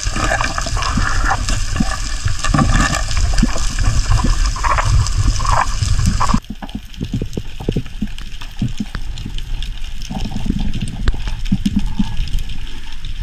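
Seawater sloshing and splashing, with irregular low knocks. About six seconds in, the sound cuts abruptly to a duller, quieter wash of water.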